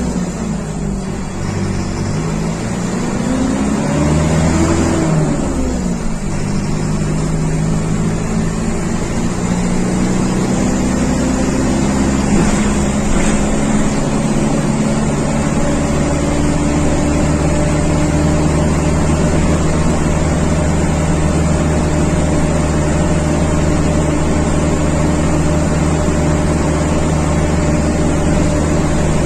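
Mercedes-Benz OF 1721 bus diesel engine running. Its pitch rises and falls twice in the first several seconds, then it holds a steady speed for the rest.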